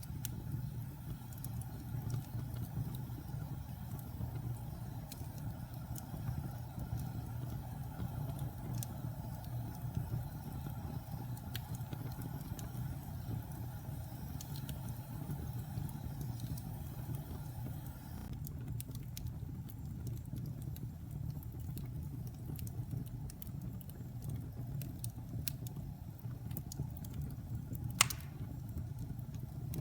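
Fire burning in a fireplace: a steady low rumble of the flames with scattered small crackles and one sharp pop near the end.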